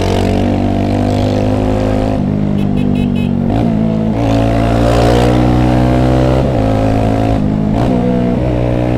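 Yamaha YS 250 Fazer's single-cylinder four-stroke engine running under way, its pitch dipping and then climbing back several times as the throttle is eased and opened again.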